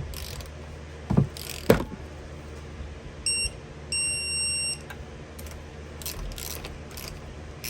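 Torque wrench tightening a numbered engine bolt on its first pass to 11 pounds: two sharp clanks of the tool on the bolt, then a short electronic beep and a longer one about three to five seconds in, the signal that the set torque is reached.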